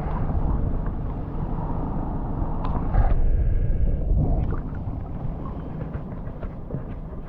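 Boat motor running steadily, a low rumble mixed with wind on the microphone, a little louder for about a second around three seconds in.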